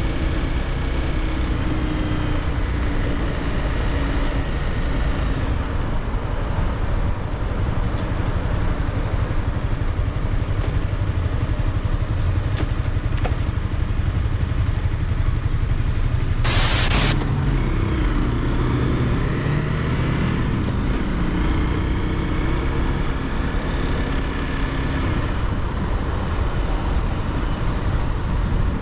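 Honda CBR300R's single-cylinder engine running under way, its pitch rising and falling as the rider works the throttle through the gears, over a heavy low rumble of wind and road. A little past halfway a sudden loud hiss lasts under a second.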